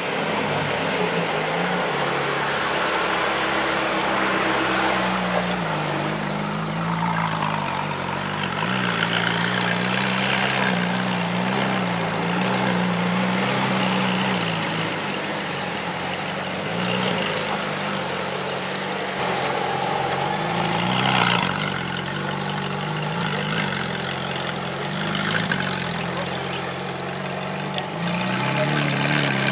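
Ferrari 458 Italia's V8 engine through an aftermarket Armytrix exhaust, idling and pulling along at low revs, its note wavering slightly but never rising into a full rev.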